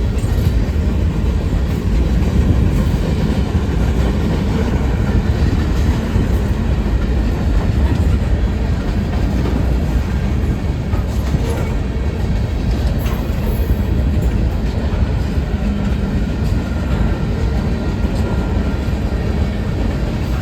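Union Pacific mixed freight train cars rolling past: a steady, continuous rumble of steel wheels on rail with a few faint clicks.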